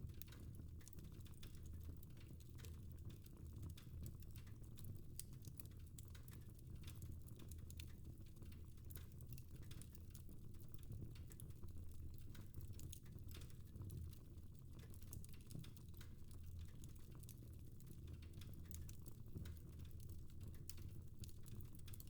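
Wood fire in a fireplace crackling faintly, with many small irregular pops and ticks over a steady low rumble.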